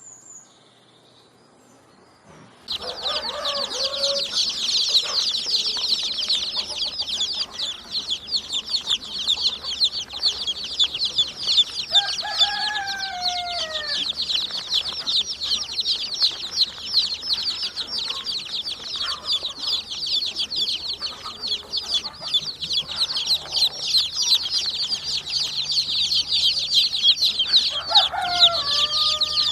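Many small birds chattering in a dense, continuous stream of rapid high chirps, which starts suddenly about three seconds in. A few lower calls that fall in pitch come from a larger bird, heard three times.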